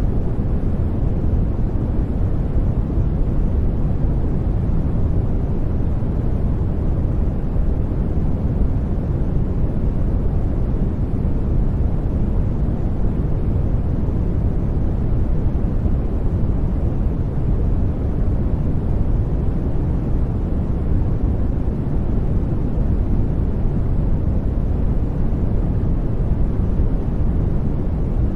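Steady, deep white-noise track: an even low rumble with little high hiss and no changes.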